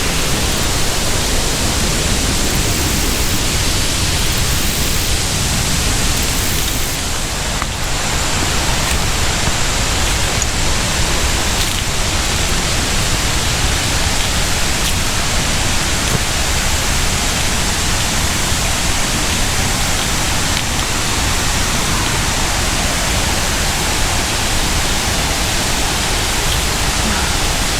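Tinker's Creek waterfall pouring: a loud, steady, even rush of falling water that holds without a break.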